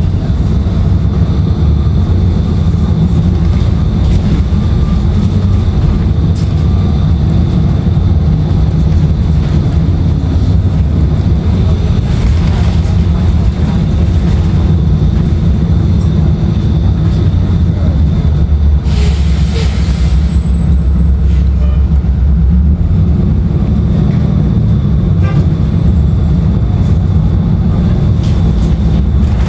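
Inside a 2016 Nova Bus LFS with its Cummins ISL9 diesel engine running, a steady low drone throughout. A brief hiss sounds about nineteen seconds in.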